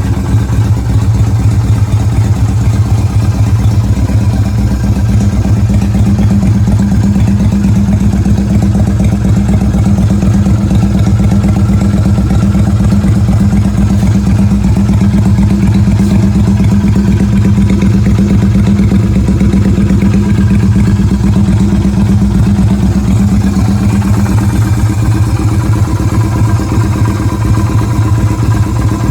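Yamaha Virago 250's air-cooled V-twin four-stroke engine running steadily at idle.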